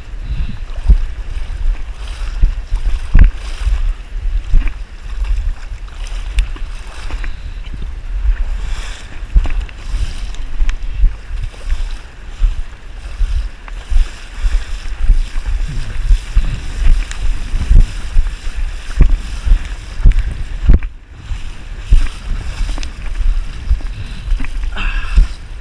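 Strong wind buffeting the GoPro's microphone: a loud, uneven low rumble that rises and falls in gusts.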